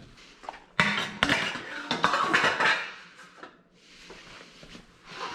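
Metal clattering and clinking, as of hand tools or metal parts being handled and set down. It starts sharply about a second in, lasts about two and a half seconds, then dies down to a few lighter knocks.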